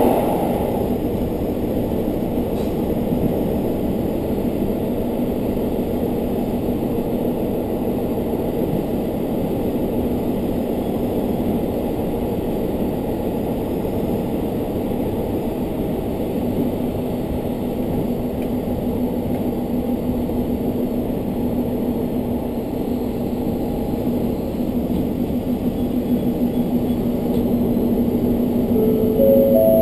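Steady running noise of a diesel railcar heard from inside the cabin, an even low rumble with a faint steady hum. Near the end, a few short tones step up in pitch.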